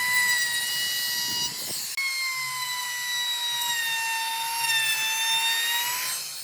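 Electric power tool working wood: a steady, high-pitched motor whine whose pitch sags slightly and recovers. It breaks off briefly about two seconds in and winds down near the end.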